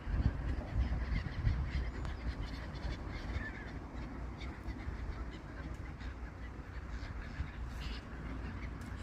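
Waterbirds calling, likely black-headed gulls, in scattered faint calls over a steady low rumble.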